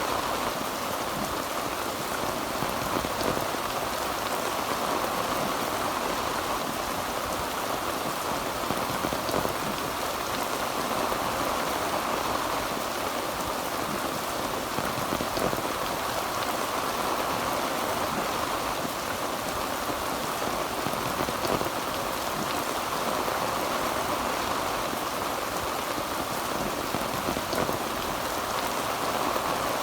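Heavy rain falling steadily on a tin roof, a dense even patter with no thunder.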